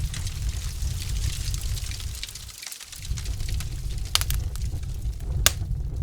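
Wood fire in a fireplace crackling: a steady low rumble with fine scattered crackles and a few sharp pops in the second half. The low rumble briefly drops out about halfway through.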